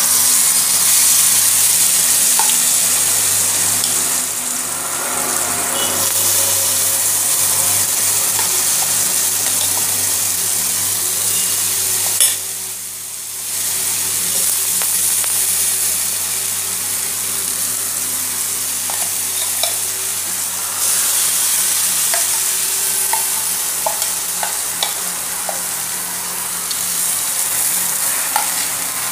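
Spice-coated raw banana slices sizzling steadily in hot oil on a flat iron griddle, with a few light clicks of a spoon as more slices are laid in. The sizzle briefly drops away about 13 seconds in.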